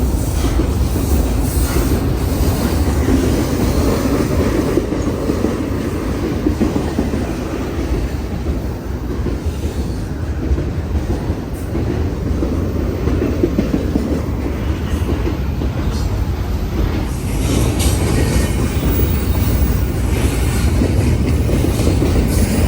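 A train rolling past on the tracks: a loud, steady noise of wheels running on rail that lasts throughout.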